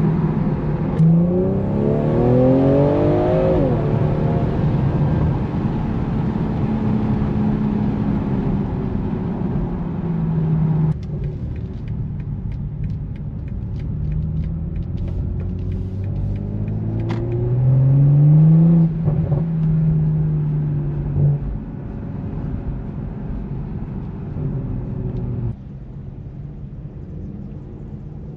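BMW M340i's turbocharged 3.0-litre inline-six with M Performance exhaust accelerating hard. The revs climb steeply twice, about a second in and again about two-thirds of the way through, with steady engine and road noise between.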